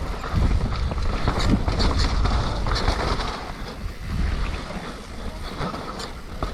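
Mountain bike riding down a muddy trail: wind buffeting the microphone, with tyres on wet dirt and scattered clicks and rattles from the bike.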